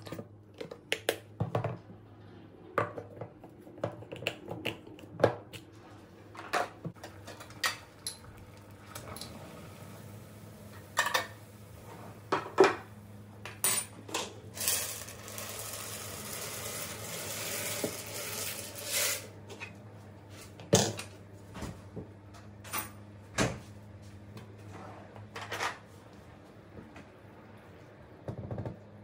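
Kitchen clatter: dishes, pots and cutlery knocking and clinking in many short sharp hits, with a stretch of steady hiss about halfway through, over a faint steady low hum.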